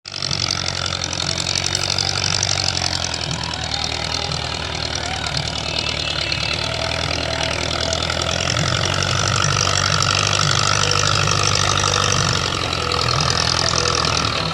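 Old tractor's diesel engine running steadily.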